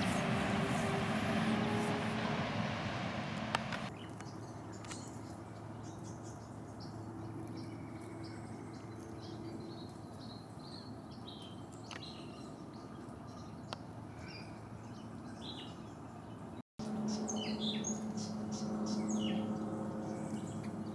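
Birds chirping with many short high calls over a steady low hum. The hum is louder in the first few seconds and again after a sudden break near the end.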